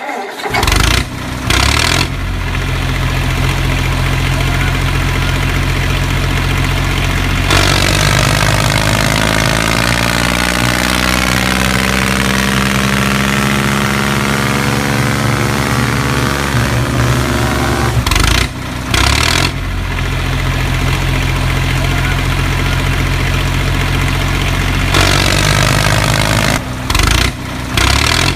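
Tractor engine running steadily. Its pitch wavers up and down and it gets noisier for about ten seconds in the middle, and the sound breaks off abruptly a few times.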